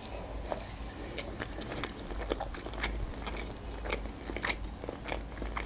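Close-miked chewing of a crumb-coated sushi roll: many small, irregular wet clicks and crunches of the mouth working the food.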